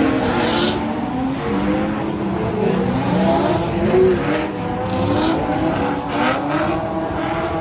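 Drift cars' engines revving up and down, several pitches rising and falling at once, with a few short higher hisses that may be tyres.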